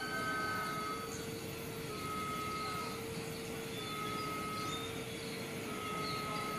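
Distant diesel-electric locomotive of an approaching container train rumbling steadily. Over it, a level-crossing alarm sounds two notes, low and high by turns, each held about a second.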